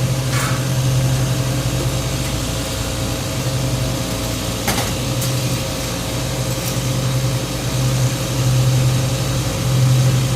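A steady motor drone with a low hum, overlaid by a few brief light clicks.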